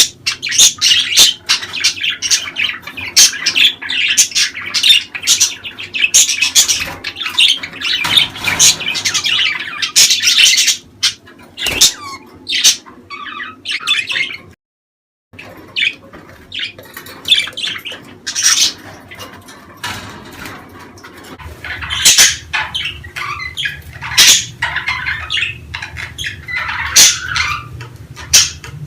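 Budgerigars chattering: rapid, overlapping warbles, chirps and squawks. The sound breaks off completely for under a second about halfway through, then resumes.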